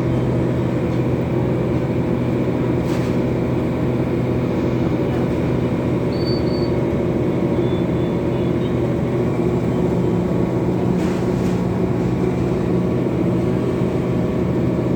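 Scania coach engine running steadily under way with road noise, heard from inside the Marcopolo Gran Viale coach. It makes a constant drone whose pitch shifts slightly about two-thirds of the way through.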